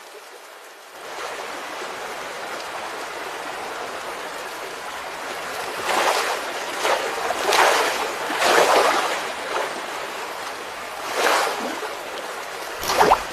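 Steady rush of water with several louder surges, like waves breaking.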